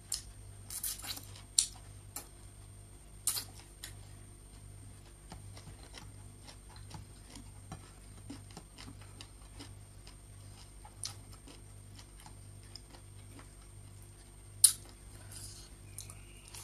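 A person eating rice by hand: close chewing with scattered sharp smacking clicks, the loudest a single click near the end, over a faint steady low hum.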